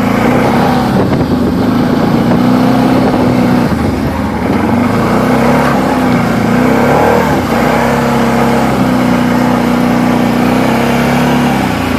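Quad (ATV) engine running at a fairly steady speed, easing off briefly about four seconds in.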